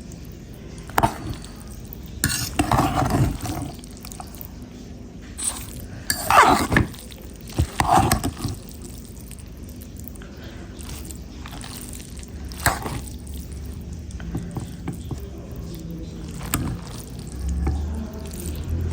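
Dishes and cutlery clinking and knocking while food is handled and plated, with scattered single clicks and a few denser bursts of clatter and scraping.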